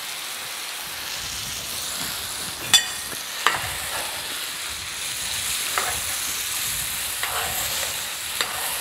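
Kid goat pieces with chopped tomato, onion and pepper sizzling in olive oil in an earthenware cazuela, stirred with a spoon that knocks sharply against the dish about five times.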